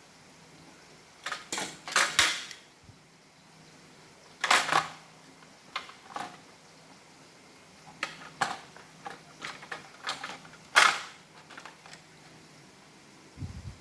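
Hard plastic parts of an iRobot Roomba robot vacuum clicking and clattering as they are handled and fitted together, in several short separate bursts.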